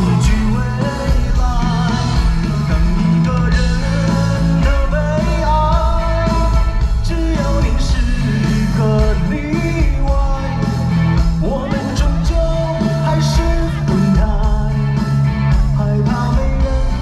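Live rock-style song: an amplified band with steady bass under a singer's voice, loud through the festival PA as heard from the audience.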